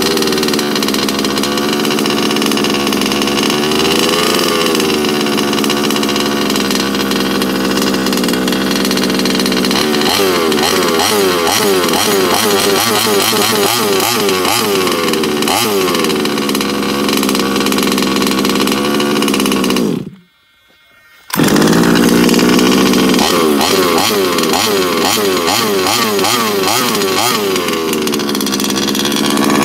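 The small two-stroke petrol engine of an HPI Baja 5B RC buggy is running after a cold start. The throttle is blipped again and again, so the pitch keeps rising and falling over a buzzing idle. About two-thirds through, the sound drops out for about a second, then returns at full level, still revving.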